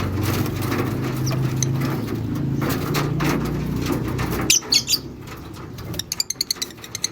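African lovebirds in an aviary. Over a low steady hum there is fluttering rustle, then about four and a half seconds in a few sharp, shrill chirps. Near the end comes a rapid run of short high chirps, about eight a second.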